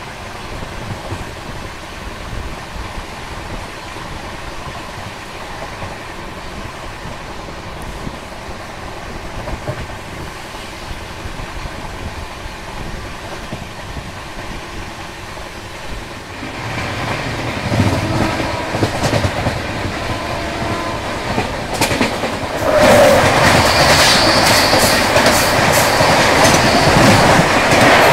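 Running noise of a moving express train heard from its open doorway: wheels rolling over the rails with a steady clickety-clack, growing louder about two-thirds through. Near the end it turns into a much louder rush as a Shatabdi Express passes close by on the adjacent track.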